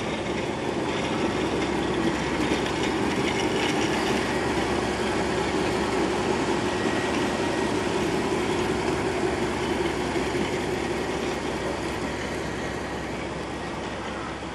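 750 mm narrow-gauge train running on the track: a steady noise with a low hum, dying away over the last few seconds.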